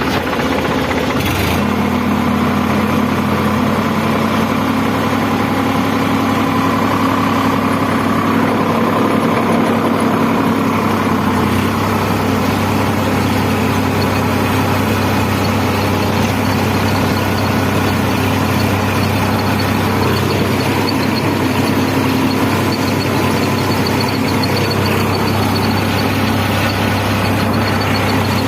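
Sonalika 55 RX tractor's diesel engine running steadily under load while ploughing. Its note changes slightly about a second and a half in, with a short click, and again around eleven seconds in.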